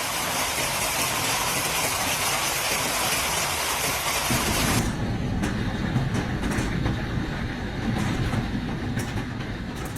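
Heavy hail and rain pounding down as a dense steady hiss, which cuts off abruptly about five seconds in; after that a low rumble with scattered sharp knocks, like hailstones striking.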